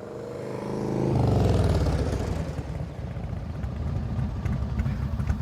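A motor vehicle engine rises in pitch over the first second. Just after one second in it grows loud, and its pitch slides down as it passes. It then settles into a steady low running sound.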